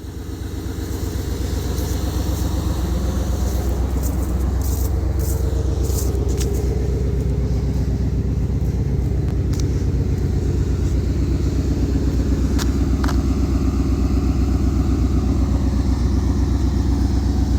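Truck engine just after a cold start, running with a steady, rapidly pulsing low rumble that builds over the first couple of seconds and then holds.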